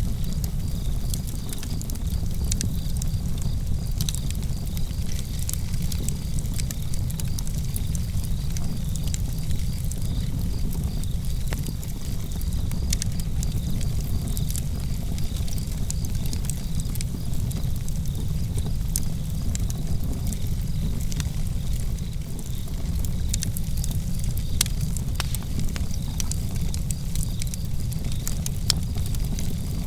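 Outdoor campfire burning: a steady low rumble of flames and breeze, with scattered sharp crackles and pops of burning wood. Crickets chirp faintly and steadily in the background.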